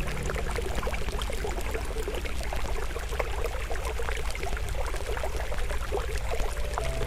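Wood fire crackling, with many quick small pops, over the steady rush of a flowing stream. Soft sustained music tones fade out in the first few seconds and return right at the end.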